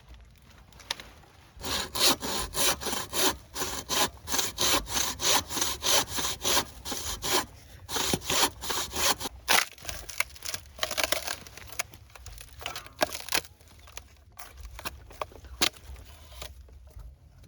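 Hand saw cutting wood in quick back-and-forth strokes, about three a second, starting about two seconds in. The strokes turn slower and irregular after about ten seconds and stop shortly before the end.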